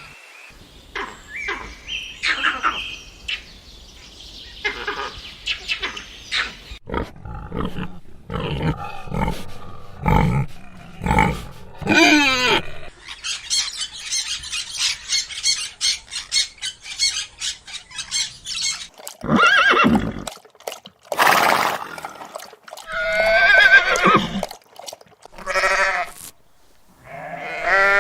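A run of different farm animal calls, one after another: short pitched cries and noises, with a dense high chattering stretch in the middle.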